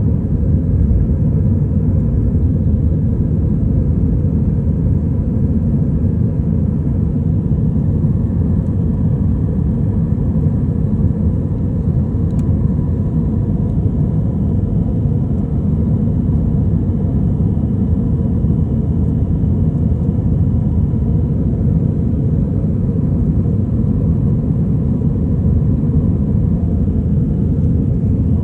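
Jet airliner's engines and airflow making a steady low rumble, heard from inside the cabin during the takeoff climb, with a faint steady hum above it.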